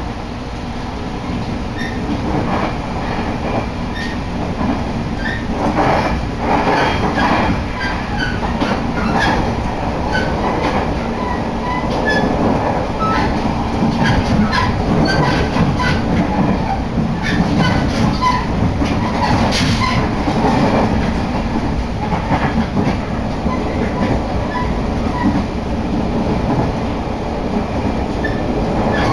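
Passenger train running on the Kagoshima Main Line, heard from inside the carriage: a loud, steady rumble of wheels on rail with frequent short clicks and knocks.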